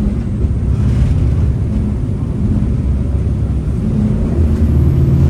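Jet boat's turbo diesel engines running under way, a steady low drone that grows a little louder near the end.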